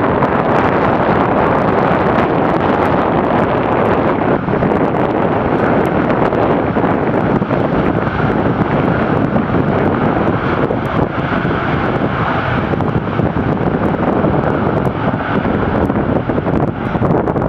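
Aircraft jet engines running loud and steady, with wind buffeting the microphone.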